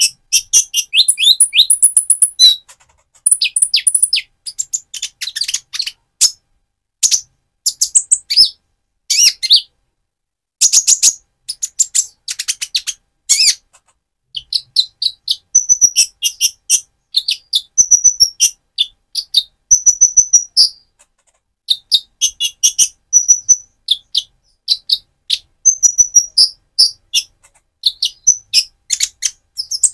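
Purple-throated sunbird (Leptocoma sperata) singing vigorously: rapid, high-pitched chirps and twittering trills in quick runs, broken by short pauses.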